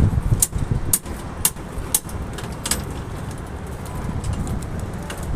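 A series of sharp clicks or taps, about two a second, for the first three seconds, over a steady low rumble.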